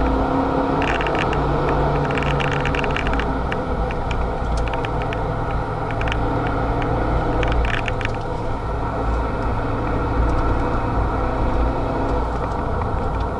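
Renault Mégane RS265's turbocharged 2.0-litre four-cylinder engine running at track speed, heard from inside the cabin over steady road and tyre rumble; its pitch rises and falls as the car is driven through corners. Scattered light clicks come through at times.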